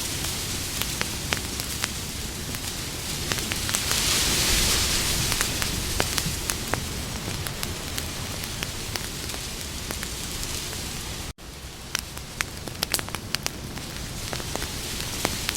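Campfire crackling: a steady hiss of burning wood with frequent sharp pops and snaps, swelling briefly about four seconds in. The sound cuts out for an instant about eleven seconds in.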